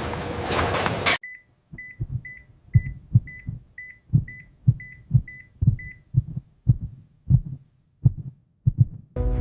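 Heartbeat thumping a little over twice a second, with a medical monitor's high beep on each beat. The beeps stop about six seconds in, while the heartbeat runs on until just before the end. It opens with about a second of rushing noise that cuts off suddenly.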